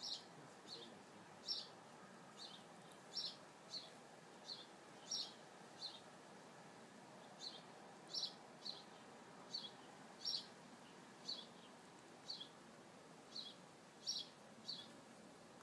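A bird calling over and over: short, high chirps, each dropping in pitch, about one or two a second, often a louder chirp followed quickly by a softer one.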